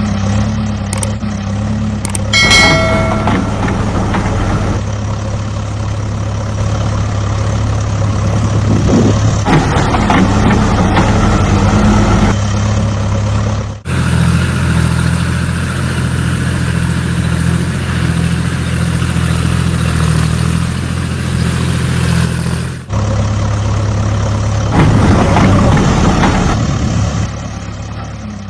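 Heavy diesel engine of a tractor or backhoe loader running steadily, its note changing abruptly twice where the footage is cut, with a short tone about two and a half seconds in.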